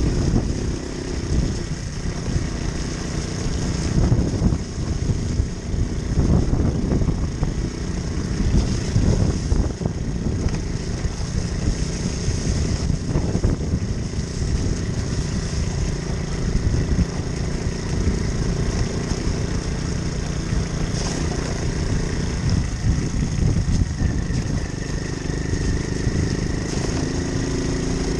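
Moped engine running on the move under a heavy, fluctuating low rumble, its engine tone standing out most clearly near the start and again near the end.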